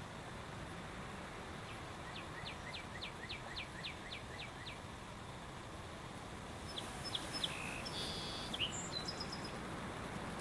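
Birds calling over steady outdoor background noise. A few seconds in comes a run of about ten quick, high, falling notes, and near the end a scatter of varied high chirps.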